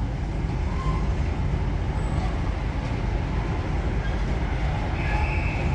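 Freight train's tank wagons rolling slowly past on the rails with a steady low rumble of wheels and couplings. A brief faint high squeal comes near the end.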